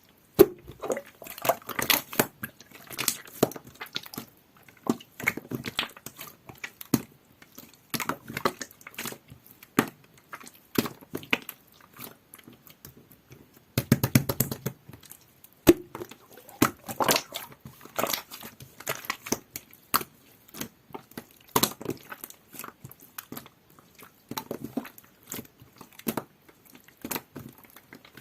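Clear, jelly-textured slime being squeezed and pressed by hand, making irregular sticky clicks and crackles that come in clusters.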